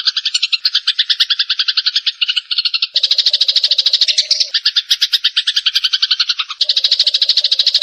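Eurasian tree sparrows chattering in a dense, rapid run of chirps, about ten a second, a recorded lure call for attracting sparrows. The chatter changes abruptly about three seconds in and again near the end, like spliced recordings.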